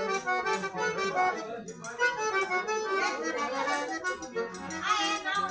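Accordion-led traditional music playing, with a steady percussive beat.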